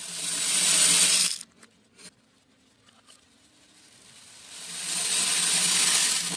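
Beads pouring in a stream, a grainy hiss that swells and cuts off sharply after about a second and a half. A second, longer pour then builds up gradually.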